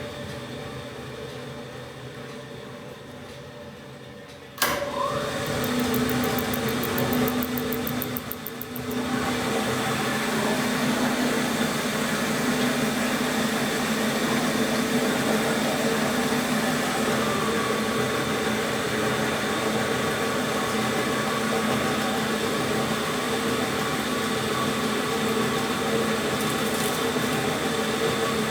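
Electric motor of a 1956 Eudora B09 semi-automatic washing machine running down after being switched off. About four and a half seconds in there is a sharp click and the motor starts again, then runs steadily with a hum and a brief dip a few seconds later.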